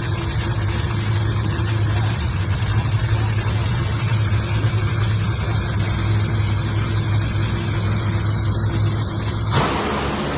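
An engine idling steadily with a deep, even hum; it cuts off abruptly about nine and a half seconds in, where a different sound takes over.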